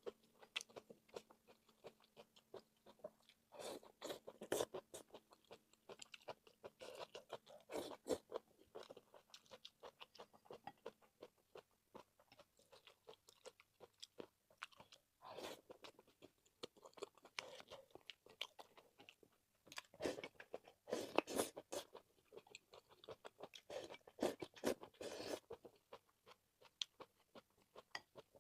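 Close-miked eating: a person chewing and biting food, with irregular wet clicks and crunchy crackles that come in bunches.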